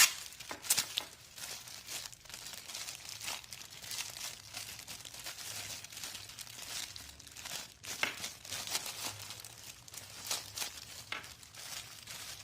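Packaging crinkling and rustling by hand as a set of new fan bushings is unwrapped, with irregular crackles and a sharp click right at the start.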